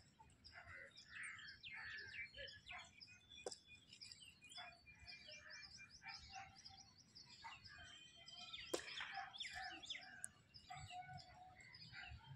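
Birds chirping faintly, many short calls overlapping, with a single sharp click about two-thirds of the way through.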